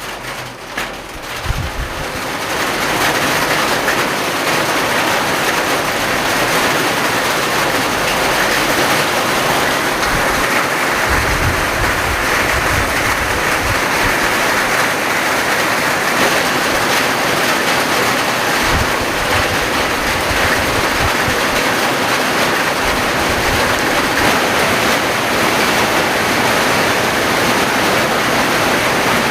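Heavy rain pouring down in a steady, dense hiss that swells in over the first couple of seconds, with occasional brief low rumbles.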